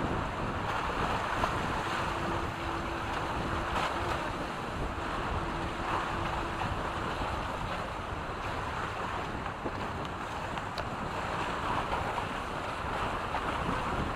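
Wind buffeting the microphone over water rushing along the hulls of a Reynolds 21 catamaran under sail, a steady, even noise. A faint steady hum runs from about two to seven seconds in.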